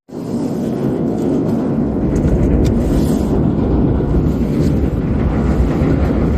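Fire in a metal fire pit burning cat litter as fuel, with a steady rushing roar and a few sharp crackles.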